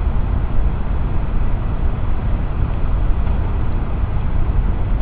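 Steady, loud rush of water pouring over a river spillway, an even roar with no breaks.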